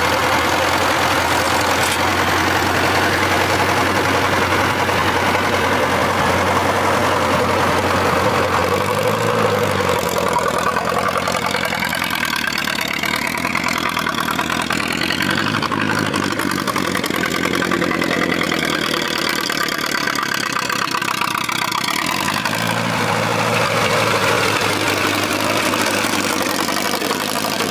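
Tractor engine running steadily. Its note dips about a third of the way in and climbs back near the end.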